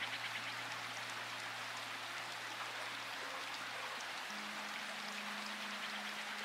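Steady rain, an even hiss flecked with droplet ticks, over soft held low music notes that shift to a new chord about four seconds in.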